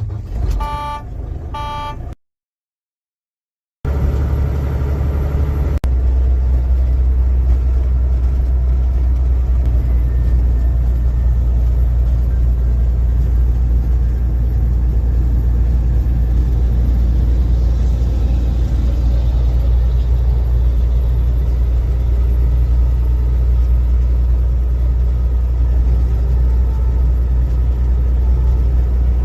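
Truck's diesel engine running, heard from inside the cab as a steady, deep rumble. Near the start there are a few short electronic beeps, then the sound drops out completely for about a second and a half before the rumble comes in.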